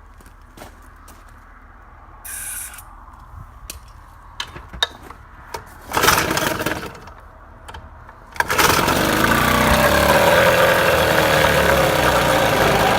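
Evinrude 4 hp two-stroke outboard being pull-started after a new head gasket: a brief loud burst about six seconds in, then the engine catches about eight and a half seconds in and keeps running steadily.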